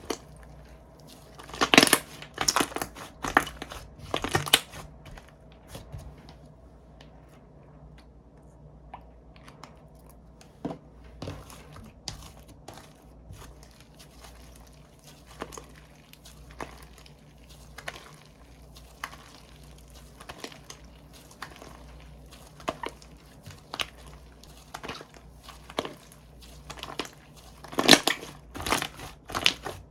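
Slime being squeezed, stretched and pressed by hand, giving crisp crackling and popping clicks, dense for a few seconds near the start and again near the end with scattered clicks in between.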